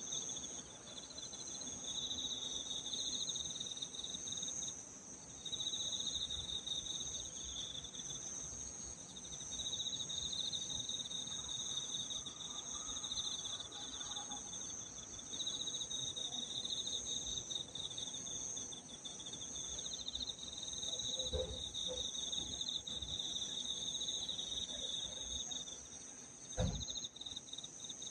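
Evening chorus of crickets and other singing insects: continuous high chirping in two pitch layers, the lower layer swelling and fading in loudness. A single short knock sounds near the end.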